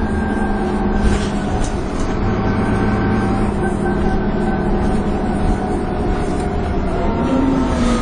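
Dennis Trident 2 double-decker bus heard under way, its engine and drivetrain giving a steady drone with a whine, the sound that bus enthusiasts call "hoovering". Several steady tones drift slowly in pitch, and a low note rises briefly near the end.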